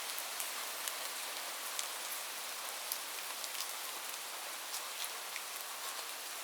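Steady rain falling, an even hiss with many scattered individual drops ticking on top. There is no thunder.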